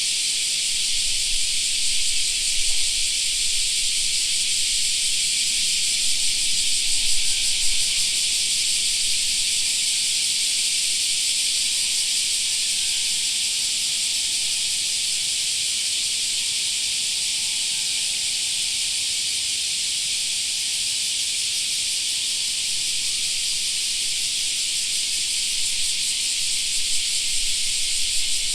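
Many cicadas singing together in a dense, steady, high-pitched drone.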